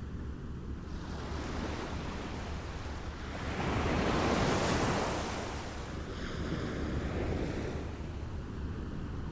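Small waves lapping against the shore: a steady wash of water with one larger wave swelling and breaking about four seconds in, then a smaller one a couple of seconds later.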